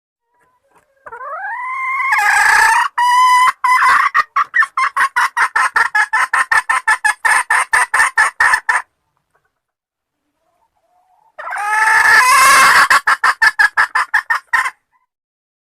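Junglefowl hen calling, the call used to draw in a male: a rising squawk that breaks into a fast run of clucks, about five a second, heard twice, the second bout shorter.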